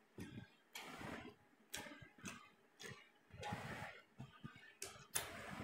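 Close-up eating sounds of a man eating goat-head curry and rice with his hand: wet chewing and lip-smacking in irregular short smacks and clicks.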